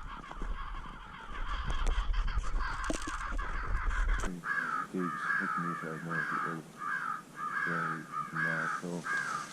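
Crows cawing: a dense, overlapping chorus of caws, changing abruptly about four seconds in to a clearer run of separate caws, roughly two a second.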